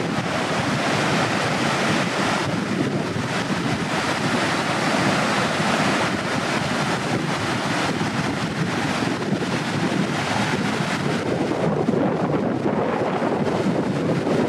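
Steady rushing of a swollen river running high after a typhoon, with wind buffeting the microphone.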